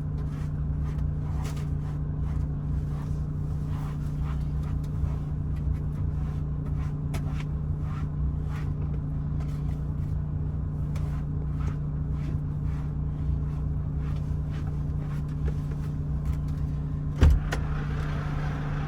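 Truck running steadily with a low, even hum and rumble, light clicks and rattles, and one sharp knock near the end.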